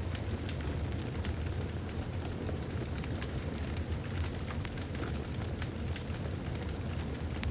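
Fireplace wood fire burning: a steady low rumble with frequent small, sharp crackles and pops.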